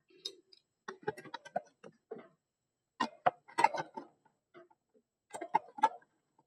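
Clicks and light knocks of three cell batteries being handled and fitted into the plastic battery compartment of a Philips Commander DL 334 radio, in a few short clusters.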